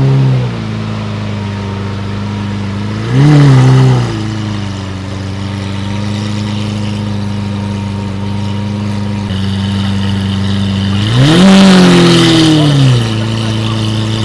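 A car engine idling steadily close by, revved briefly about three seconds in and again, for longer, near the end, each rev rising in pitch and falling back to idle.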